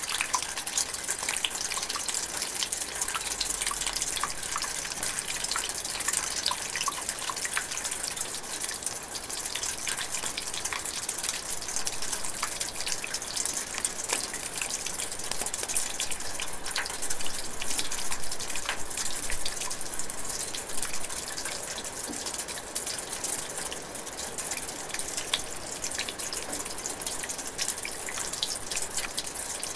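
Steady drizzling rain: a dense patter of many small drops.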